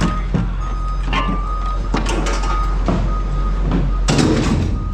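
A truck engine running with a reversing alarm beeping about once a second, plus scattered metal knocks and a louder rush of noise about four seconds in.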